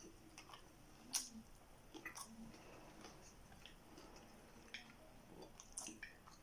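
Quiet chewing of a mouthful of brown rice: soft, wet mouth clicks and smacks, with one sharper click about a second in.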